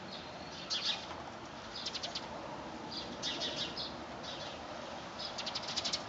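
Small birds chirping: about six quick bursts of high, rapid notes, over a steady hiss of wind and rain.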